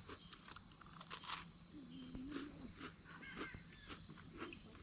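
A chorus of crickets chirping in a continuous high-pitched trill, with scattered faint clicks.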